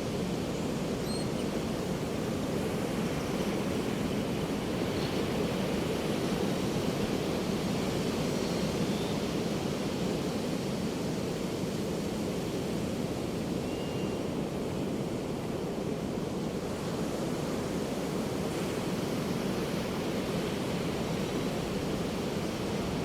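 Ocean surf washing steadily onto a beach, an even low rushing with no distinct single breaks. A few faint short seagull calls sound high above it.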